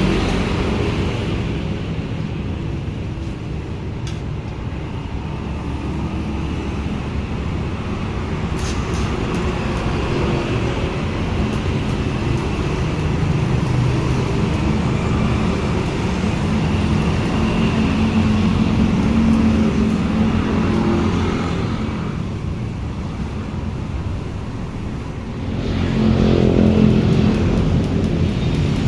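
Engine running at a steady speed, briefly quieter and then picking up in speed and loudness near the end.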